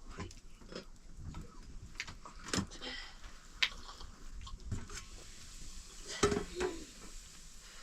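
Scattered clinks and knocks of dishes and utensils being handled, with louder knocks about three and a half and six seconds in.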